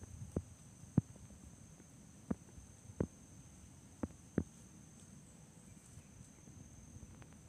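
Footsteps: six dull thuds at uneven spacing in the first four and a half seconds, then they stop.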